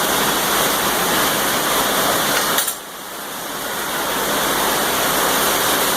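Steady hissing, crackling noise. It breaks off at a sharp click a little under three seconds in, then builds back up gradually.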